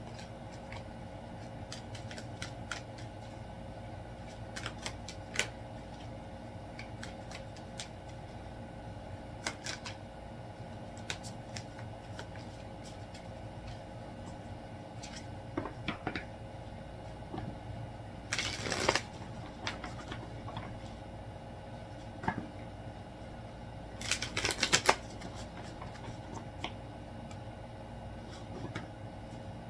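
Tarot cards being handled and shuffled: scattered light clicks and snaps of cards, with two louder, denser bursts of shuffling, one about two thirds of the way through and another a few seconds later, over a steady low hum.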